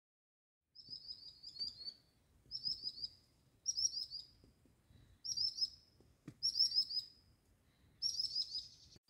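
A small songbird singing, starting about a second in: six short, high phrases of quick falling notes, each under a second long and repeated about once every second and a half.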